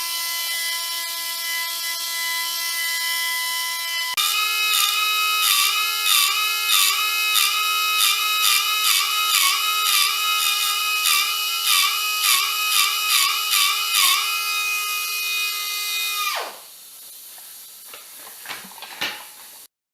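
Small electric power tool motor, such as a drill or rotary tool, whining steadily, then speeding up and dipping in pitch about twice a second as it is pressed into work, before spinning down, followed by a few faint clicks.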